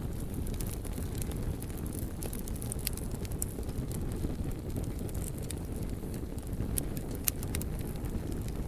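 Wood fire burning, a steady low rumble with frequent sharp crackles and pops of the burning wood.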